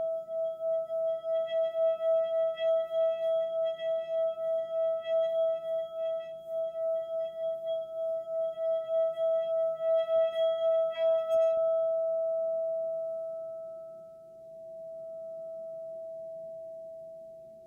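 Relaxation music: a single sustained ringing tone with overtones, throbbing several times a second. About twelve seconds in the throbbing stops and the tone fades to a soft steady hum.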